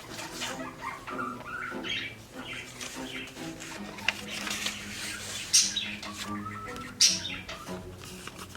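Background music with steady held notes, with a bird squawking and chirping over it now and then.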